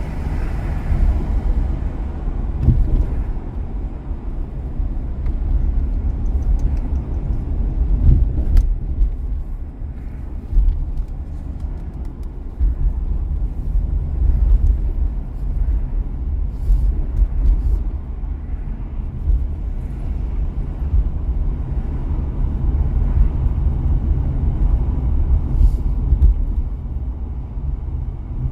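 A car driving on city streets: a steady low rumble of engine and tyre noise, with a single faint click about eight seconds in.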